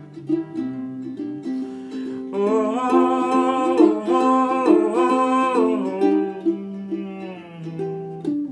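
Ukulele strumming a blues chord pattern in a break between sung verses. A wordless, wavering melody line rides over it from about two seconds in to about six seconds.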